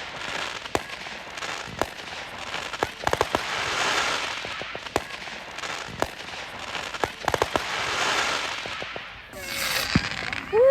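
Fireworks going off: scattered sharp bangs and pops, with quick runs of crackling about three and seven seconds in.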